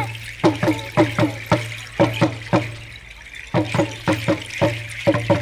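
Drums beaten in a quick, uneven rhythm, about two to three beats a second with some doubled, each beat ringing with a short falling tone.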